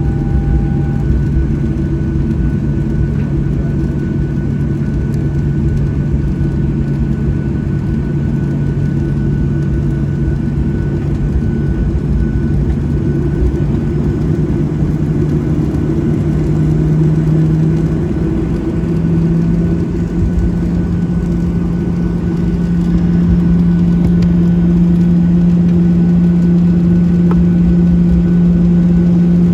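Cabin noise of a Boeing 737-700 taxiing after landing: a steady hum of the CFM56 engines at idle and the air system. The low engine tone steps up in pitch partway through and grows a little louder near the end, as thrust is added.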